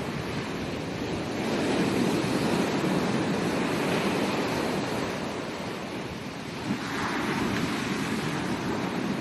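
Ocean surf breaking and washing up on a beach: a continuous rush of water that swells about two seconds in and again near the end.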